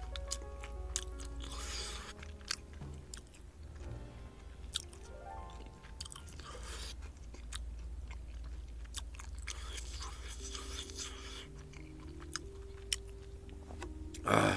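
Close-up chewing of food with many small crisp crunches, over background music with sustained notes. A short loud burst of noise comes just before the end.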